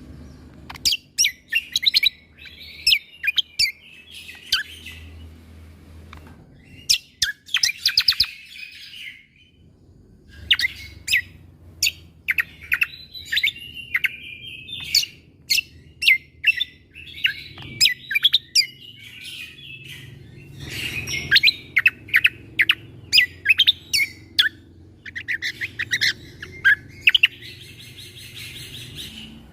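Cucak kombo (kecial kombok) song: bursts of rapid, sharp high chirps and clicking 'shot' notes, broken by short pauses, over a faint steady low hum.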